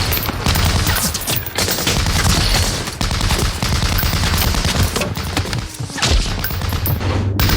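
Dense WWII-era small-arms gunfire from a war-film battle soundtrack: many shots overlapping continuously, with a brief drop just before the end.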